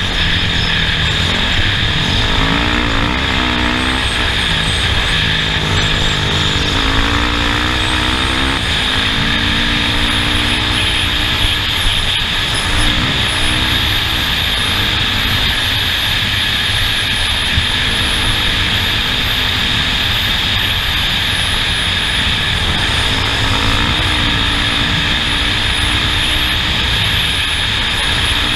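Off-road race vehicle's engine running and revving up and down over a dense, steady noise of the vehicle moving over the course, with a thin high whine above.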